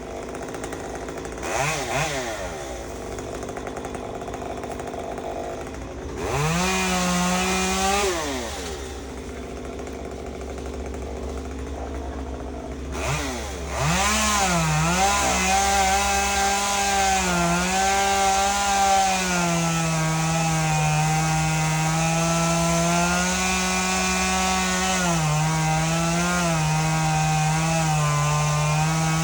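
Gas chainsaw idling, revved up and back down briefly about six seconds in, then held at high revs from about fourteen seconds on. Its pitch dips a few times as it comes under load in the cut.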